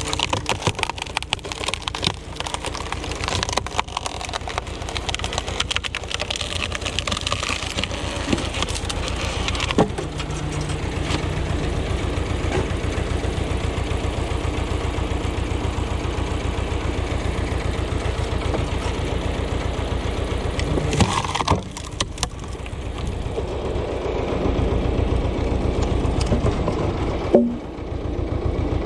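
Ursus tractor's diesel engine running steadily, with irregular cracking of wood being split during the first ten seconds or so. There is a sharp crack near the end.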